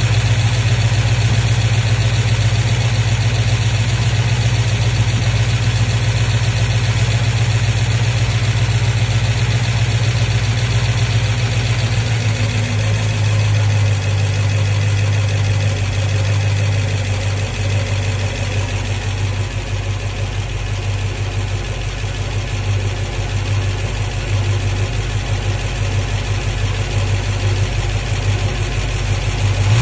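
A 1965 Ford Mustang K-Code 289 High Performance V8 idles steadily in the first minute after a cold start. About halfway through, the idle eases down and runs a little quieter as the engine warms.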